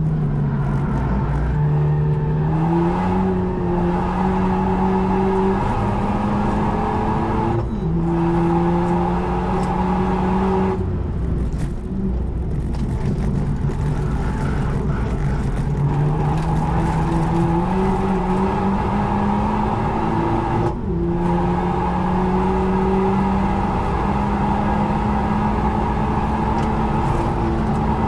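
Renault Megane RS Trophy R's 1.8-litre turbocharged four-cylinder engine heard from inside the cabin at racing pace. The note climbs repeatedly with the revs and breaks off briefly, dropping in pitch, about 8, 11 and 21 seconds in.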